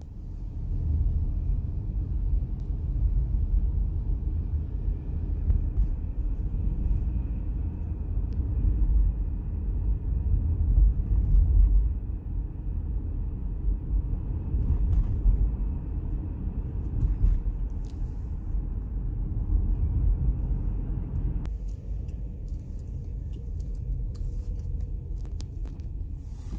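Car being driven, heard from inside the cabin: a steady low road and engine rumble, with a faint higher hiss that drops away about twenty seconds in.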